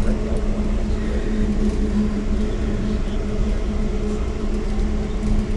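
Steady rumble and hum of a passenger train running through a tunnel, heard from inside the coach.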